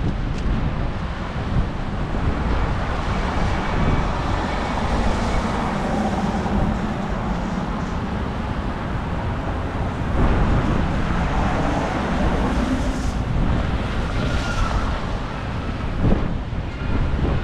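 Strong storm wind gusting and buffeting the microphone, with heavy low rumble that swells about ten seconds in and again near the end.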